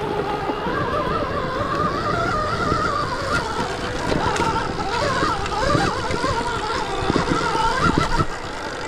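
Stark Varg EX electric dirt bike motor whining, its pitch wavering up and down with the throttle. Under it is a low rumble with scattered knocks from riding over rough ground.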